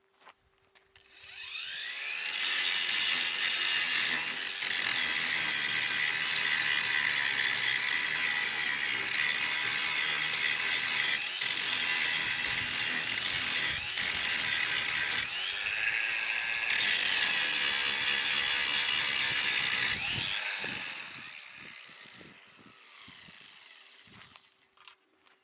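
Electric power tool motor spinning up, running at speed for about twenty seconds, then winding down. Its note dips briefly about two-thirds of the way through.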